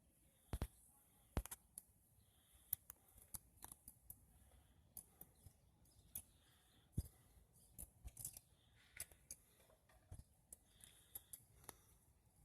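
Near silence broken by scattered faint, sharp clicks at irregular intervals.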